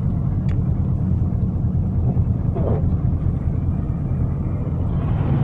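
Steady low rumble of a car's engine and tyres on a snowy road, heard from inside the cabin while driving, with a hiss that swells near the end.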